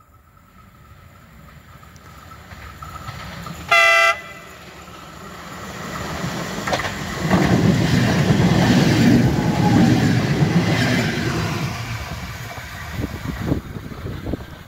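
A train approaching and passing. It gives one short horn blast about four seconds in, then its wheels and cars rumble past, loudest in the middle and fading near the end.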